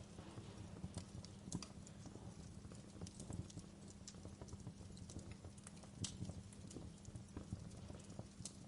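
Wood fire crackling in a fireplace: irregular snaps and pops, a few louder ones, over a steady low rumble of the burning fire.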